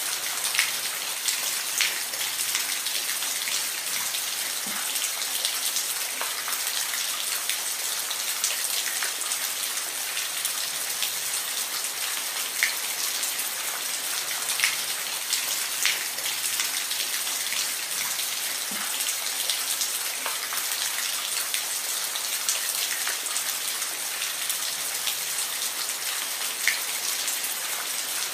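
Steady rain with close individual drops ticking sharply every second or so over an even hiss.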